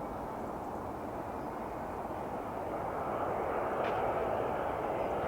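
Jet airliner engines heard as a steady rushing roar that builds in loudness about halfway through as the aircraft draws nearer.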